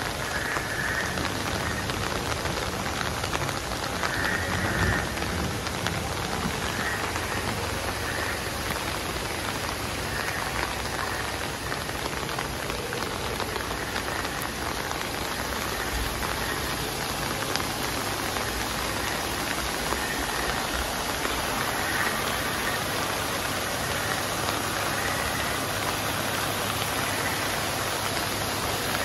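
Light drizzle falling with water running over small rock waterfalls and streams, together a steady even hiss.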